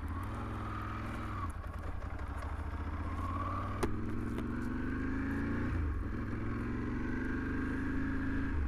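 Motorcycle engine accelerating through the gears: the pitch rises, drops at a gear change about one and a half seconds in and again near six seconds, then climbs again. Heard from a helmet camera, with a single sharp click nearly four seconds in.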